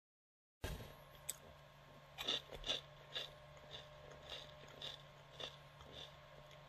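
Someone chewing crispy little ramen-snack pucks, faint crisp crunches coming about twice a second over a steady low hum. It starts after a moment of dead silence.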